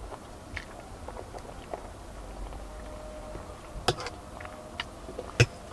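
Quiet mouth sounds of a person chewing spaghetti, with faint small clicks, then two sharp clicks near the end.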